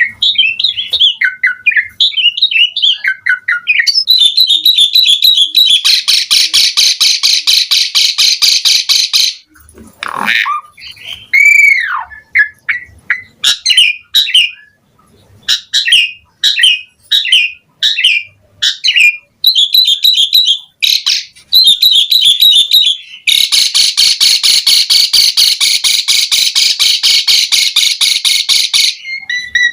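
Asian pied starling (jalak suren) singing a long, varied song. It runs through quick chirps and whistles, with an arching whistle that rises and falls about eleven seconds in. Two long, fast, buzzy rattles come, one a few seconds in and one near the end.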